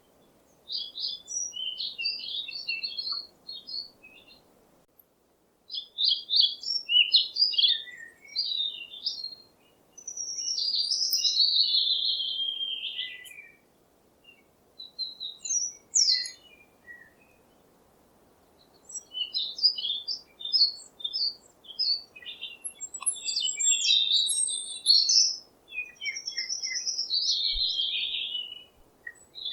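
Songbirds chirping and singing in short phrases of quick high notes and trills, with brief pauses between phrases.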